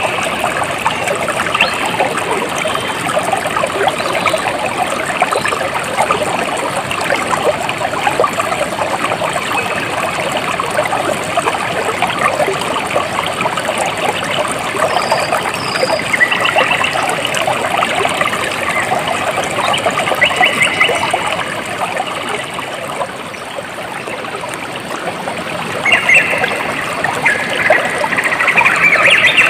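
Water trickling and gurgling steadily over stones in a small stream, with a few brief, rapid higher-pitched trills now and then.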